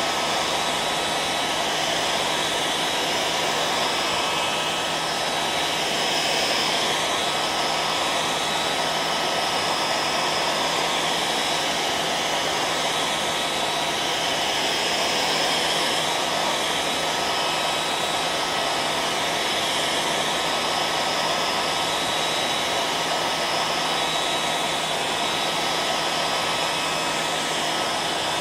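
Hair dryer running steadily: a continuous rushing of air with a thin steady whine from its fan motor, unchanging throughout.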